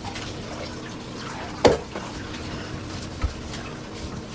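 Bathwater sloshing and dripping in a tub as a dog is bathed, with one sharp splash a little under two seconds in and a soft low thump about a second later.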